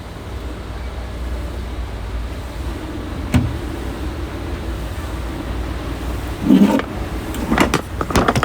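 Semi-truck engine running, a steady low rumble heard from inside the cab, with a sharp knock about three seconds in and several knocks and clatters in the last two seconds.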